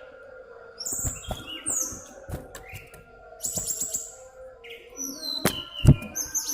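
Common iora (cipoh) calling in short whistled chirps, several of them sliding down in pitch. A few sharp knocks come in between, the loudest about six seconds in.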